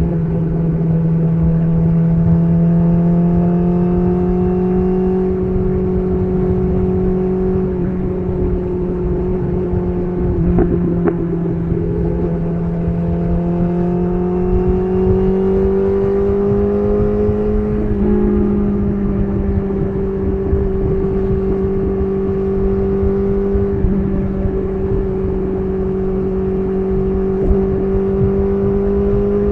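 BMW S1000RR inline-four running through an SC Project CR-T titanium exhaust while riding at a steady, light throttle. The engine note climbs slowly in pitch, with a brief wobble about ten seconds in and a small step up about eighteen seconds in.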